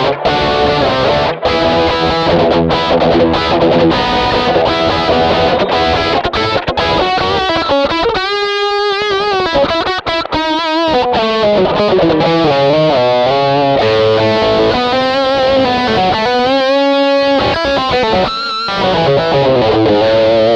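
Electric guitar played through an MXR Rockman X100 pedal on its high-gain distortion setting, giving a mid-heavy 80s rock tone. Chords give way to sustained lead notes with wide vibrato.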